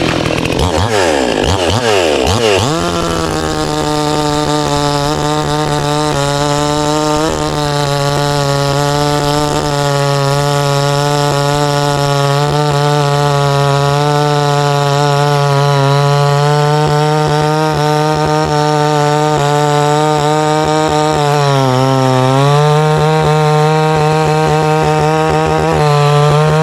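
Two-stroke chainsaw revving up and down, then held at high speed as it cuts through a dead pine log, with a brief dip in pitch a little past the middle.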